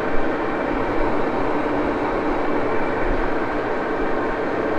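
Axelson metal lathe running steadily, its spindle and gearing giving an even mechanical whir.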